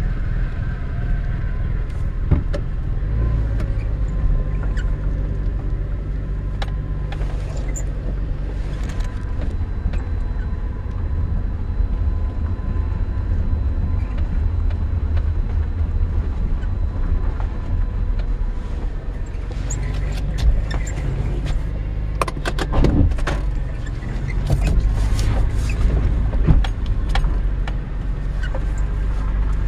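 1987 Acura Legend's 2.5-litre V6 running as the car is driven, heard from inside the cabin as a steady low drone. A cluster of clicks and knocks comes about two-thirds of the way through.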